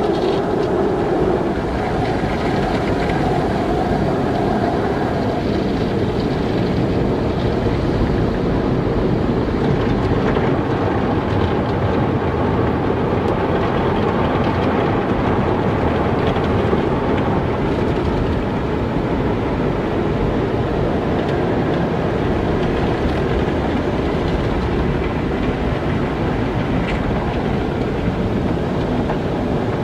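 Car wash running steadily: a loud, unbroken wash of water and machinery noise.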